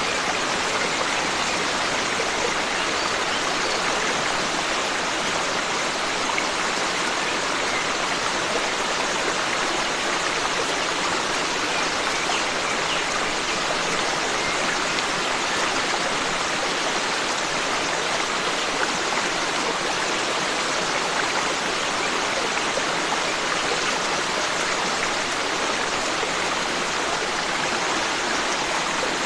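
Forest stream flowing, a steady rush and splash of water over rocks without break.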